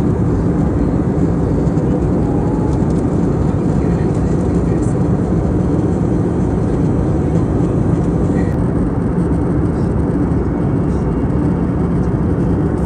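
Cabin noise aboard an Airbus A320neo: a steady, even rumble of engines and airflow.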